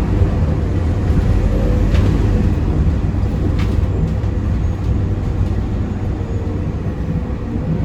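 Scania K230UB bus's five-cylinder diesel engine running, heard from inside the passenger cabin as a steady low drone. Two short sharp rattles come about 2 and 3.5 seconds in.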